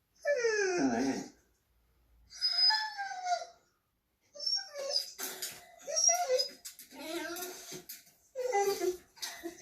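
A dog whining and howling: a long falling call in the first second, another call about two seconds later, then a run of shorter calls.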